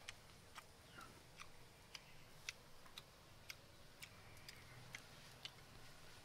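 Faint chewing of a mouthful of fried beef: soft, sharp mouth clicks about twice a second.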